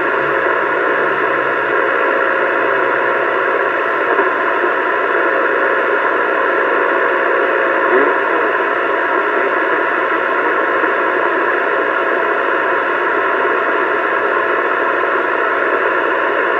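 CB radio receiver hissing with static through its speaker, a steady unbroken rush of noise with no voice on the channel.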